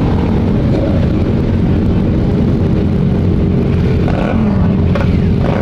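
Motorcycle engines running steadily: the dense engine noise of a large group of motorcycles riding together.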